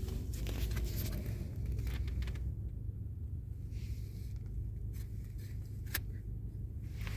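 Car cabin road noise while driving: a steady low rumble, with a few light clicks and a sharper tick about six seconds in.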